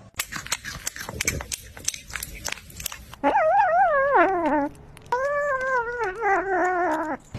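About three seconds of scattered sharp clicks and taps, then two long, wavering howls from a pet animal, the first sliding down in pitch and the second held steadier.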